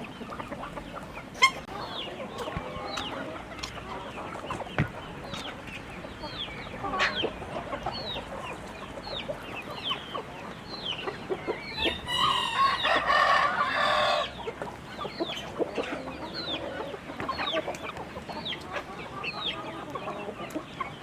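A flock of chickens clucking amid many short, high, falling chirps, with a rooster crowing for about two seconds just past the middle.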